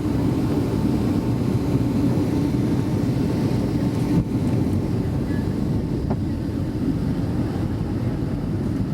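Steady low roar inside a Boeing 757-200 cabin on approach, from the engines and the air rushing past the fuselage, with a faint steady tone above it. A brief click sounds about four seconds in.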